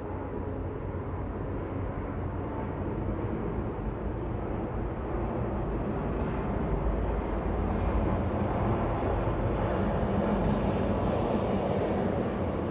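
Low, steady rumble of passing motor transport that grows gradually louder.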